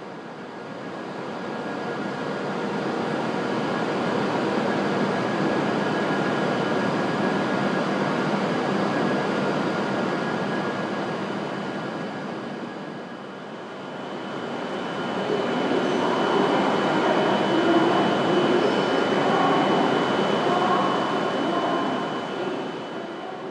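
E7/W7-series Shinkansen train in a station, its running noise swelling and fading twice. A steady high whine runs through the latter part.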